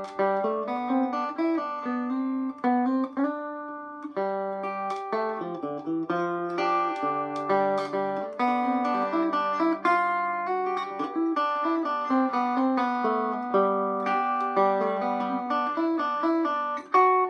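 Electric Vega banjo from about 1936-37 picked in melodic style: a continuous run of quick single notes played across the strings, forming a tune, with notes ringing over one another.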